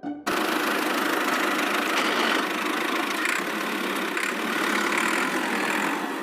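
A motor running steadily. It starts abruptly just after the start and drops a little in level near the end.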